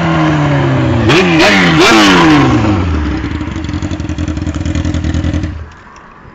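Yamaha YZF600R Thundercat inline-four motorcycle engine, running with no exhaust fitted. The revs drop, then two quick throttle blips come about a second apart, then it settles to a fast, uneven idle. The engine cuts off suddenly near the end, leaving a few faint ticks.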